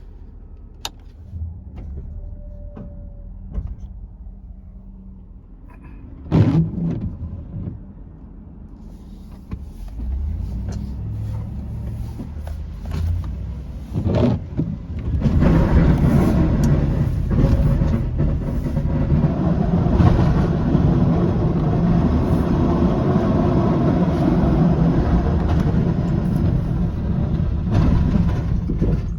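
Snowplow truck running, with a couple of sharp knocks, growing much louder and fuller about halfway through.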